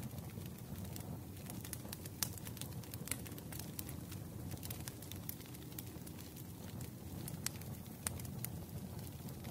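Wood fire crackling: irregular sharp pops and snaps over a low steady rumble of flames, with a few louder pops scattered through.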